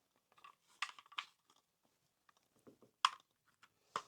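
A few faint, sharp clicks and taps as a model locomotive's plastic body and chassis are handled and fitted back together.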